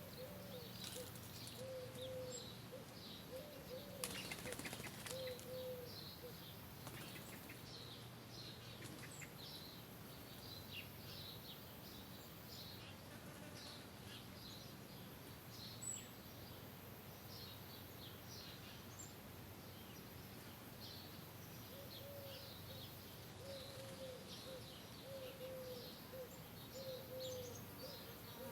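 Outdoor bird chorus: many small high chirps, with a lower call repeated in short notes near the start and again near the end. A brief rustle or whoosh comes about four seconds in.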